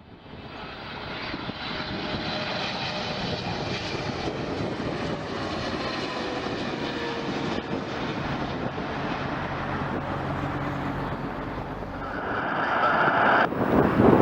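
Airliner engines from a passing aircraft, fading in at first, with a whine that falls slowly in pitch as it goes by.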